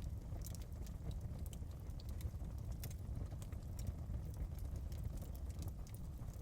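Wood fire in a fireplace crackling: sharp irregular pops and snaps over a steady low rumble of the flames.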